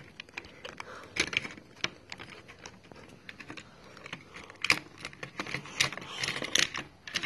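Small plastic toy parts clicking and tapping irregularly as a toy car is handled and moved about a plastic play set.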